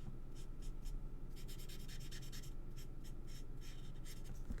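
A pen tip scratching across cardstock in a run of quick, short colouring strokes.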